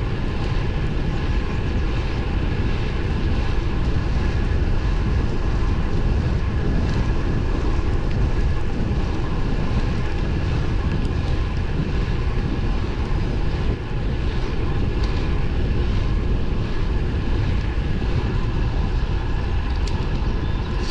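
Steady wind rush and road rumble from riding a road bike at speed, with the low end the loudest, and a few faint steady whining tones over it.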